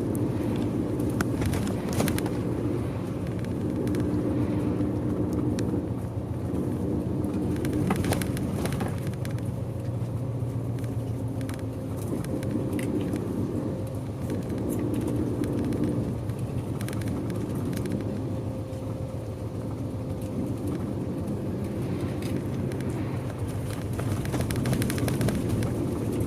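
Bus engine and road noise heard from inside the moving bus: a steady low rumble whose engine note shifts up and down every few seconds, with occasional small rattles.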